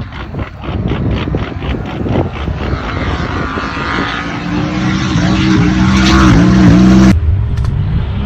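Race car engine running, pulsing rhythmically at first, then a steady engine note that climbs in pitch and grows louder. It cuts off suddenly about seven seconds in.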